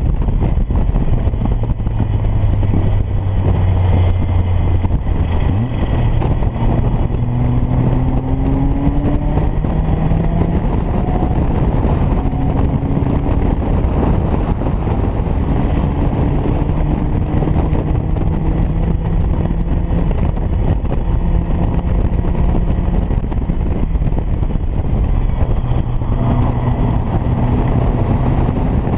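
Caterham Academy race car's four-cylinder engine heard onboard, pulling hard and rising in pitch through each gear, then dropping back at several upshifts. Heavy wind and road rumble from the open cockpit run under it.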